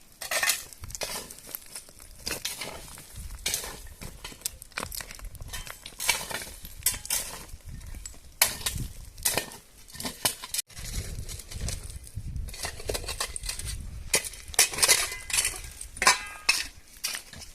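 Irregular clattering of hard objects being handled: a run of sharp clinks, knocks and scrapes at uneven intervals.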